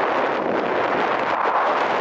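Wind rushing over the microphone, a steady loud noise without distinct events.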